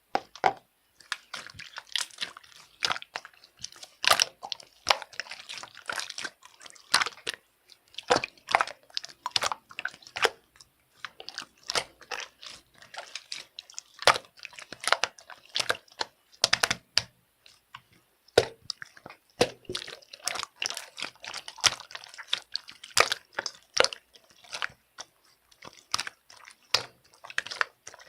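Slime being squished and pressed by hand, giving a dense, irregular run of crackly clicks and pops.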